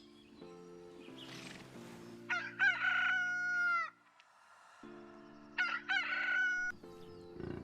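Rooster crowing twice, each crow a long drawn-out call lasting about a second and a half, over soft background music.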